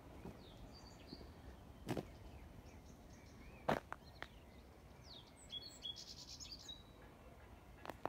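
Small birds chirping, with a brief rapid trill about six seconds in. A few sharp clicks cut through, the loudest a little before the midpoint.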